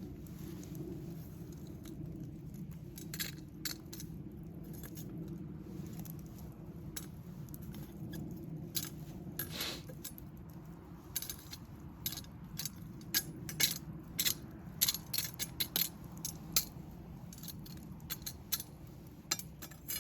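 Wood campfire crackling: sharp pops and snaps over a steady low rumble, the snaps coming thicker from about halfway through.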